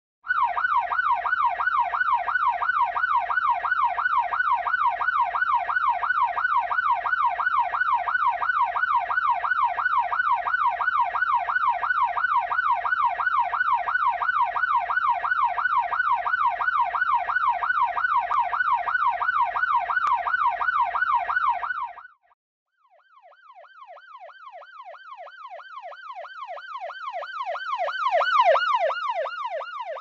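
Electronic ambulance siren on a fast yelp, sweeping up and down about three times a second, which cuts off suddenly about 22 seconds in. A second yelping siren then fades in, grows louder to a peak about two seconds before the end, and eases off again.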